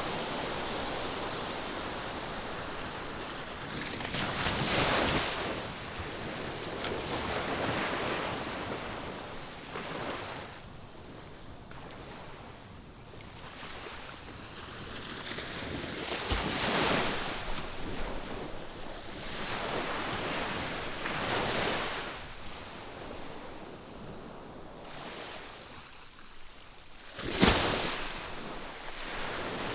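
Ocean surf breaking on a beach, the wash swelling and ebbing every few seconds. A short sharp burst stands out near the end.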